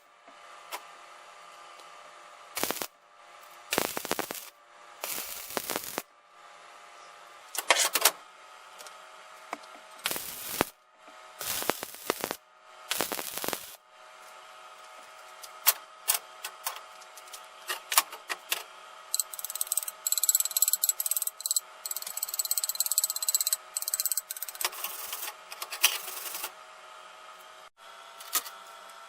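Workshop sounds of tools and metal parts being handled: a series of sharp knocks and clatters, some in quick clusters, over a steady hum. For several seconds past the middle there is a dense, rapid ticking hiss.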